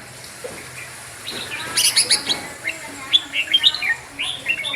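Red-whiskered bulbul singing: after a quiet second, a quick run of short, bright, warbled notes that comes in clusters.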